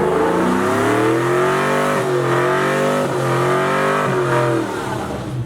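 Truck engine revving hard during a burnout, held at high revs that dip and climb again about twice, then fall off near the end.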